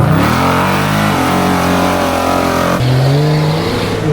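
Jeep engine revving under load, its pitch stepping up sharply about three seconds in.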